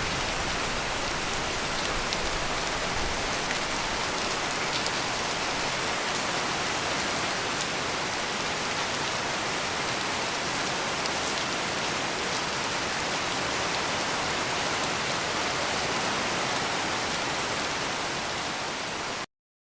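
Heavy rain pouring steadily, a dense even hiss of falling drops with faint ticks of single drops. It cuts off suddenly to silence just before the end.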